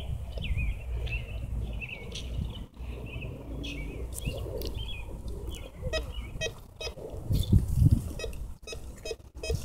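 Small birds chirping over wind rumbling on the microphone, with a louder gust near the end.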